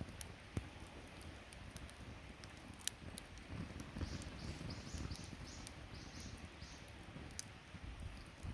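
Wood bonfire crackling, with scattered sharp pops over a low rumble; the loudest pop comes about three seconds in. A quick run of about seven short, high chirps sounds through the middle.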